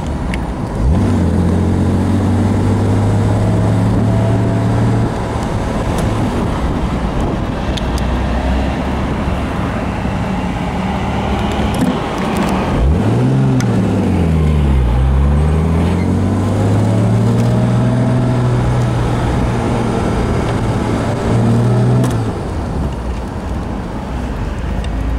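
1969 Jaguar E-type's 4.2-litre straight-six running under way. The engine note holds mostly steady, dips and climbs again about halfway through, and drops near the end.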